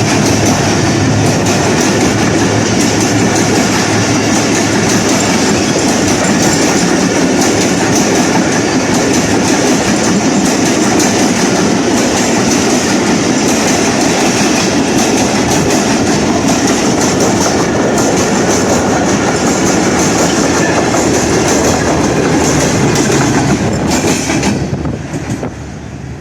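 Passenger train coaches running through at speed, wheels clattering over the rail joints in a steady clickety-clack. The noise drops away near the end as the train passes.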